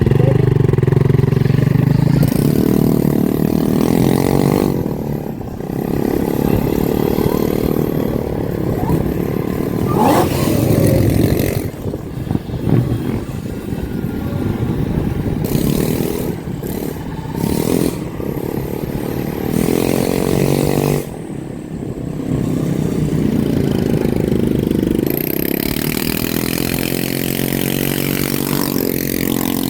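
Motorcycle and dirt bike engines running and revving, the pitch rising and falling several times as bikes rev and pass.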